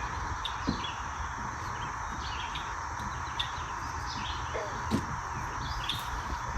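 Birds chirping in many short calls over a steady background hiss, with a few faint clicks.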